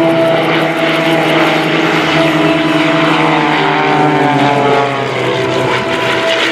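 Two Pitts S1 aerobatic biplanes flying past in close formation, their piston engines and propellers running steadily, the engine note falling in pitch as they go by.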